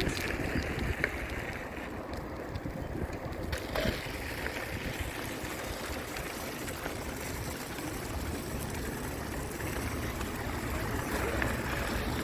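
Wind buffeting the microphone of a moving bicycle, a steady low rumble, with a few faint clicks.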